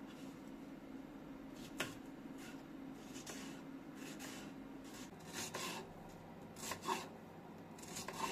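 Soft scattered rubbing and scraping handling noises, a short one roughly every second, over a faint steady hum that stops about five seconds in.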